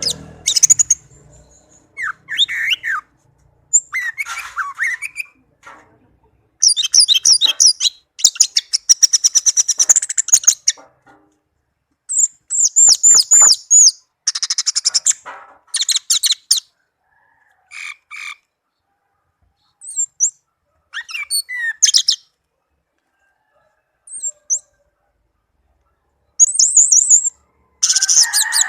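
Orange-headed thrush singing: rapid, varied high phrases broken by pauses of a second or two, busiest in the first half and sparser toward the end.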